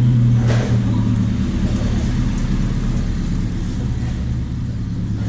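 A steady low mechanical hum, with a brief rasping scrape about half a second in.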